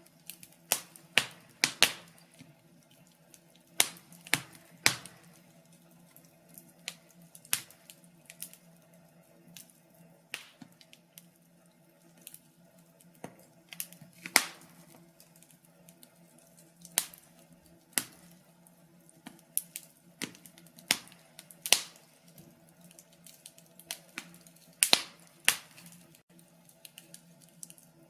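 Wood fire in a fireplace crackling, with sharp pops at irregular intervals, roughly one a second, over a faint steady hum.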